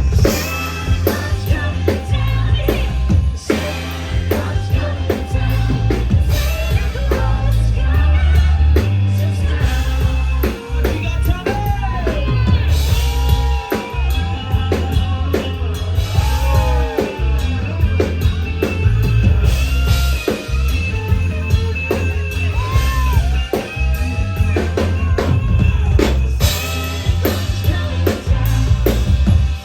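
A live rock band playing, with singing, drum kit, guitar and heavy bass.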